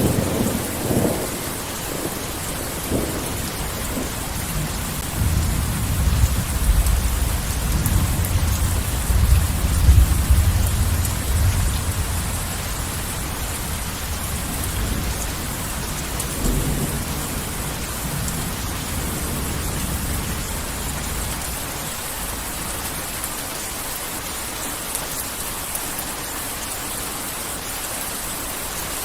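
Heavy rain falling steadily with rolling thunder. A long low rumble builds and peaks around the first third, with a weaker roll a little past halfway, and then the thunder dies away, leaving only the rain.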